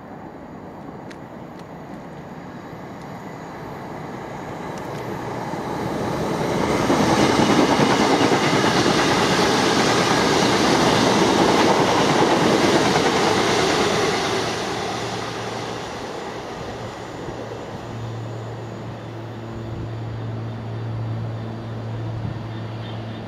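Electric multiple-unit passenger train passing at speed: its rumble and wheel clatter build over several seconds, stay loud for about seven seconds, then fade away. In the last few seconds a low steady engine hum comes in from an approaching locomotive.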